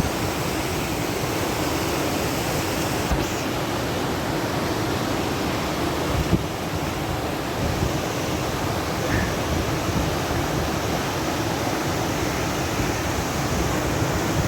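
Steady rush of a waterfall, a continuous even noise with no breaks.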